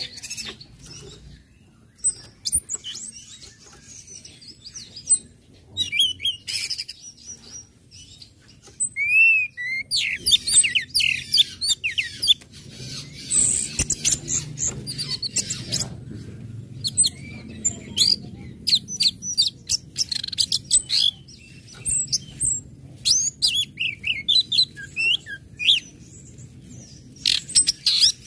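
Orange-headed thrush (anis merah) calling and singing: quick high chirps, short whistles and twittering trills with gaps between them, busiest from about ten seconds in.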